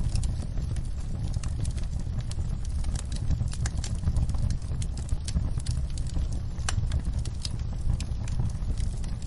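Wood fire in a fireplace crackling, with sharp irregular pops and snaps over a steady low rumble of the flames.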